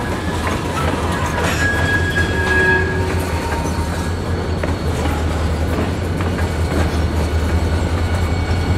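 Freight train rolling slowly past: rail cars' wheels clicking over the rail joints, with brief high wheel squeals about two to three seconds in, over a steady low diesel engine hum that grows a little as a CN locomotive comes alongside near the end.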